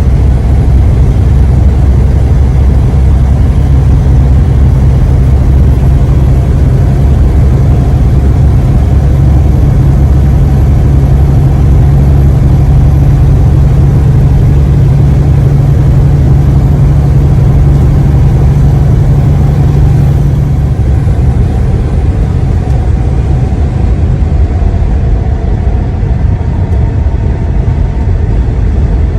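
Steady low drone of a semi-truck's engine and road noise heard inside the cab while driving. About two-thirds of the way through, part of the deep hum drops away and it gets slightly quieter.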